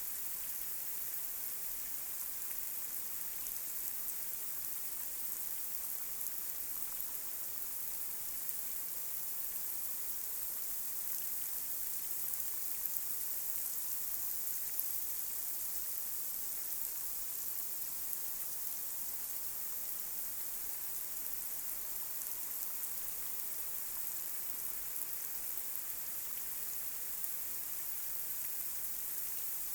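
Light rain falling on a street: a steady, high hiss with scattered small drop ticks.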